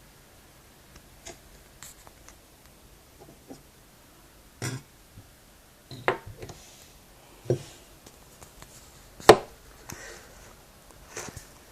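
Handling noises of a small diecast metal model airplane: scattered clicks and knocks as it is moved about, the loudest knock about nine seconds in.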